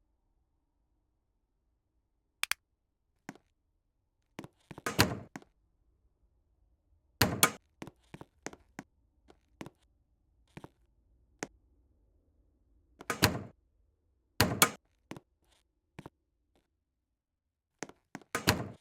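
Irregular thuds and knocks, a dozen or more short impacts with silence between, the loudest about five, seven, thirteen and fourteen seconds in.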